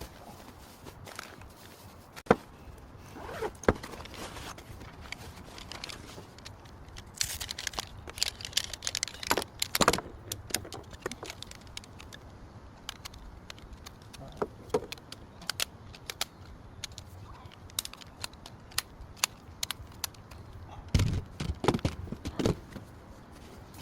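Scattered clicks, taps and clinks of objects being handled, with a few louder knocks about 21 seconds in.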